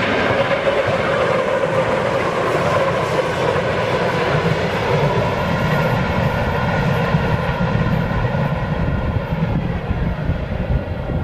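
Train passing close by at speed: a steady, loud rumble of wheels on rails, with a humming tone that dips in pitch about nine seconds in.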